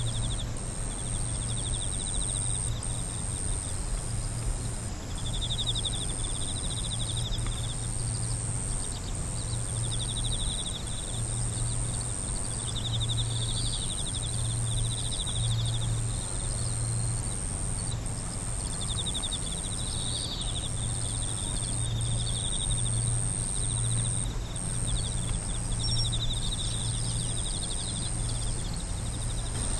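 Night insects calling: a continuous high-pitched trill, with repeated one-to-two-second bursts of rapid, pulsed chirping over it. A low pulsing hum runs underneath.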